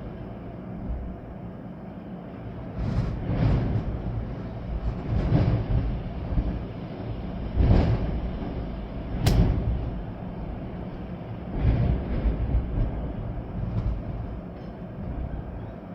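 Storm wind with rain, gusting hard several times with a deep rumble, and a sharp crack about nine seconds in.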